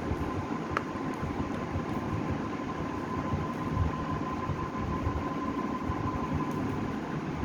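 Coloured pencil shading on a sketchbook page: dense, quick scratching strokes of the pencil on paper, with a faint steady whine underneath and one small click about a second in.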